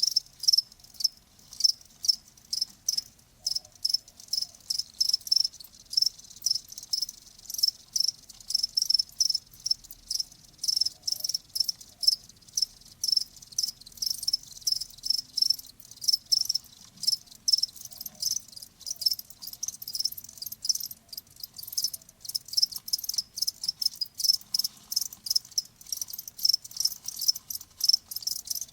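Crickets chirping: short, high-pitched chirps repeating several times a second in a steady, unbroken run.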